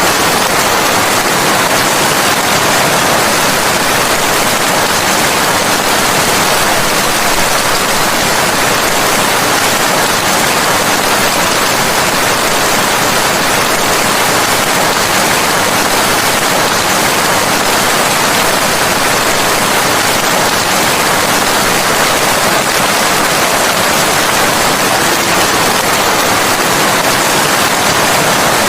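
Steady, heavy rain falling, a dense even hiss with no thunder or distinct drops.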